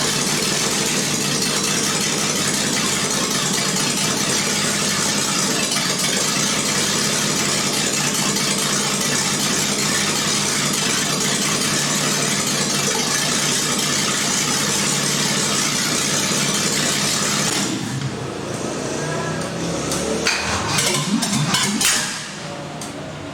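An engine running steadily, then dropping off about 18 seconds in, followed by a few clicks and knocks.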